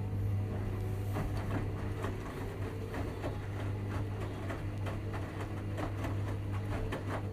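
Washing machine running: a steady low motor hum with irregular clicks and ticks over it.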